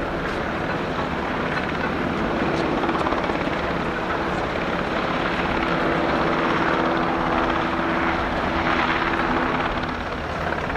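UH-60J helicopter flying: a continuous rotor and engine sound, a few steady low tones over a broad rushing noise, swelling slightly and dipping briefly near the end.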